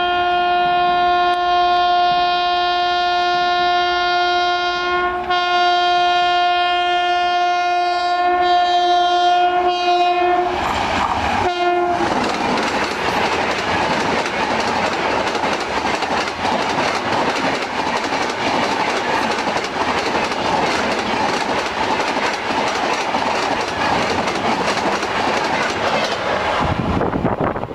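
Rajdhani Express locomotive horn held on one steady pitch for about twelve seconds, with a brief break about five seconds in. The express then passes at speed, a loud steady rush with the clatter of wheels on rail joints.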